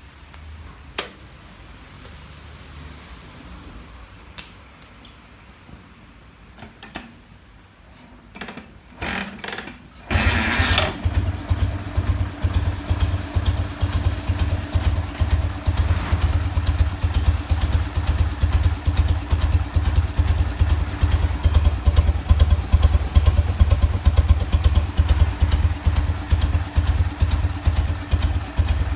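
1958 BMW R50 flat-twin motorcycle engine started after a long time unused: a few clicks and short bursts, then about ten seconds in it catches and keeps running with rapid, even exhaust pulses.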